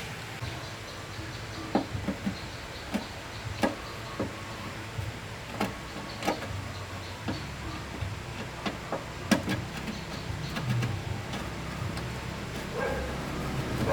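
The restored 1989 Suzuki truck's engine idling with a steady low hum, with scattered sharp clicks and knocks over it. Near the end the engine sound swells as it begins to rev.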